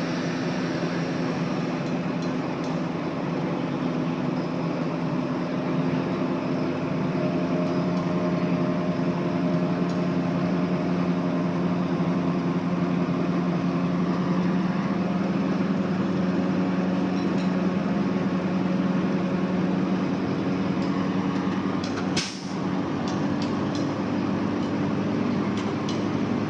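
Heavy diesel earthmoving machinery, a bulldozer or dump truck, running steadily with a constant engine drone, broken briefly near the end and followed by a few faint clicks.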